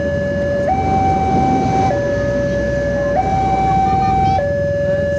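Two-tone electronic warning siren alternating between a low and a high note, each held about a second and a quarter, over a steady low rumble.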